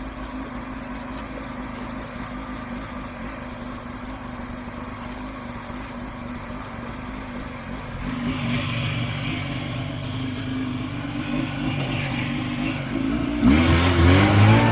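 Buran snowmobile's two-stroke engine running steadily under way, growing louder about eight seconds in, then revving up sharply near the end.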